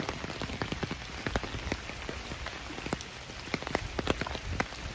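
Rain falling steadily, with many sharp, irregular drop ticks, likely drops hitting the camera or nearby surfaces, over a steady hiss.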